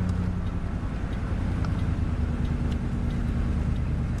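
A 1994 Dodge Ram pickup's 318 V8 engine running on wood gas while driving: a steady engine drone with road noise, its pitch rising slightly about half a second in.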